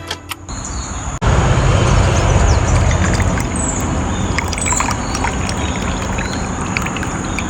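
Running water, a steady rushing trickle that starts suddenly about a second in, with small birds chirping briefly over it.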